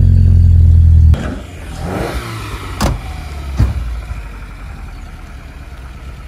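Car engine running loud and steady close by, cutting off abruptly about a second in; then a car engine further off with a shifting pitch, two sharp knocks, and a steady lower rumble.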